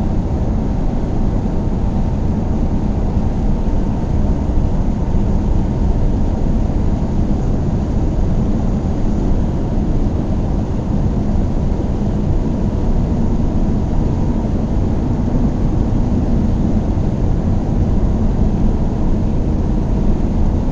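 Car driving at a steady speed: a low, even rumble of engine and road noise with no changes.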